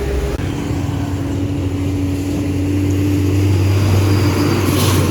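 Heavily loaded truck's diesel engine running under load: a steady drone over a low rumble, with a short burst of hissing noise near the end.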